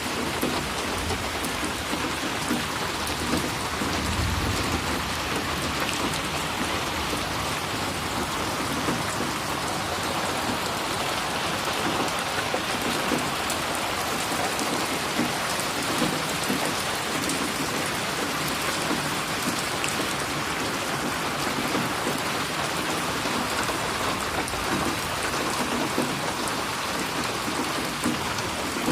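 Steady rain falling on a surface, with many individual drops splashing.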